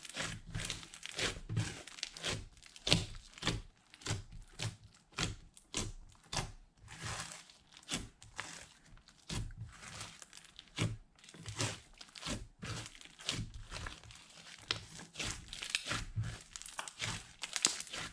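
Slime being squished and kneaded by hand: a rapid, irregular run of sticky clicks, crackles and pops.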